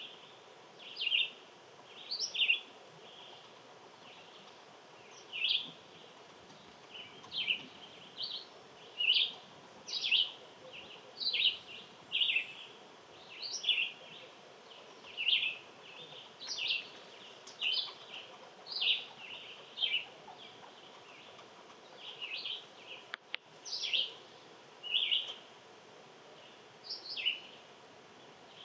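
A songbird calling over and over: short, clear notes that slide down in pitch, roughly one a second, over a faint steady background hiss. A single sharp click comes near the end.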